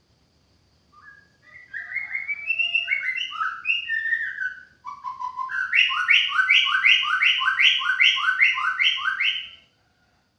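White-rumped shama (murai batu) singing: a varied phrase of sliding notes, then after a short break a run of about a dozen repeated down-slurred notes, roughly three a second, that stops abruptly.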